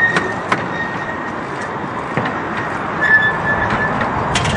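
Miniature railway train running on its track: a steady rolling noise with irregular clicks, and a thin high squeal that comes and goes.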